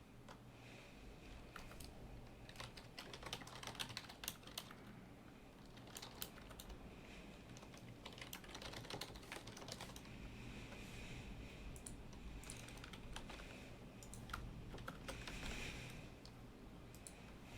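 Typing on a computer keyboard: irregular runs of faint keystroke clicks, over a low steady hum.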